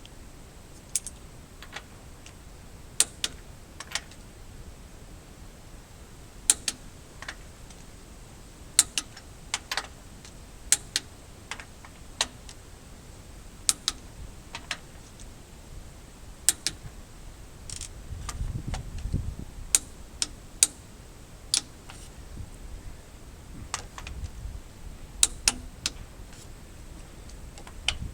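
Scattered sharp clicks and clinks at irregular intervals, a few seconds apart, with a short low rumble about eighteen seconds in.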